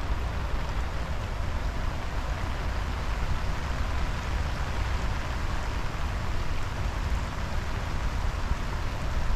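Steady rain from a driving rainstorm falling on wet pavement and plants, an even hiss with a constant low rumble underneath.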